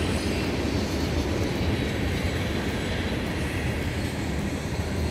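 Freight train of tank cars rolling past: a steady rumble of wheels on the rails.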